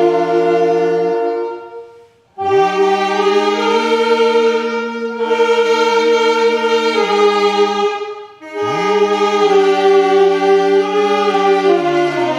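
Church choir singing a slow hymn in long held chords with accompaniment. Phrases break briefly about two seconds in and again about eight and a half seconds in.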